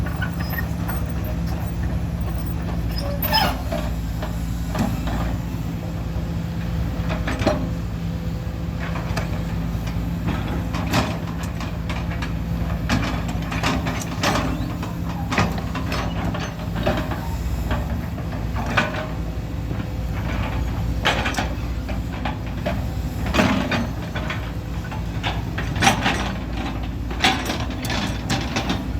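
Truck engine running steadily under way, with frequent irregular rattles and knocks from the vehicle.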